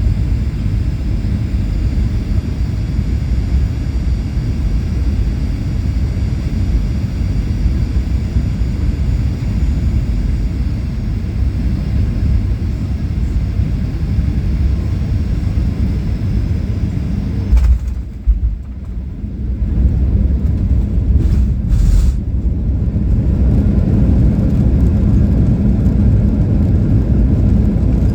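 Steady low rumble of a running vehicle. About two-thirds of the way through there is a click, the higher hiss briefly drops out, and a couple more clicks follow.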